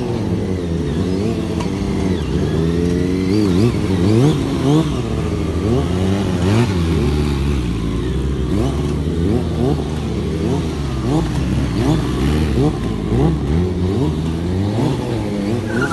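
Sport motorcycle engines revving up and down repeatedly, with several rising and falling engine notes overlapping.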